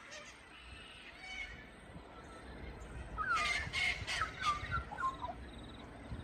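Birds calling: a few faint calls, then a quick run of short calls with sliding notes starting about three seconds in.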